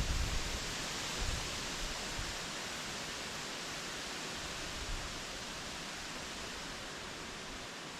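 Strong wind rushing through trees, a steady dense hiss, with gusts buffeting the microphone in the first second or so.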